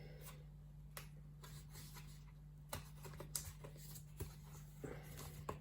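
Faint, scattered clicks and rustles of a cardboard juice carton being folded and pressed into place by hand.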